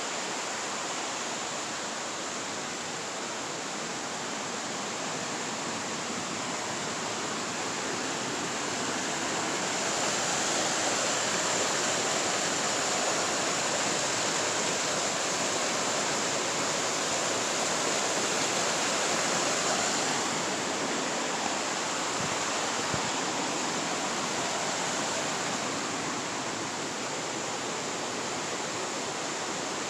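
Steady rush of flowing creek water, growing somewhat louder for about ten seconds in the middle.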